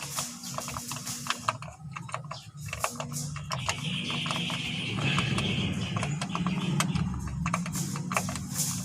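Metal hand tools clicking and clinking irregularly against metal parts, with a short hiss about halfway through.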